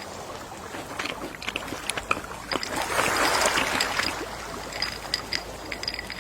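Gentle sea waves washing in, one wave swelling up about three seconds in and then falling back, with small clicks and faint high chirps over the wash.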